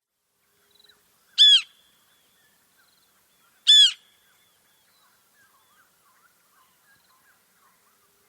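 A bird gives two loud, short calls, about two seconds apart, each rising and falling in pitch. Faint chirps from other birds follow.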